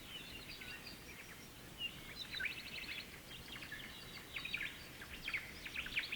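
Birds chirping: many short, high calls, some sweeping downward, over a steady background hiss, growing busier in the second half.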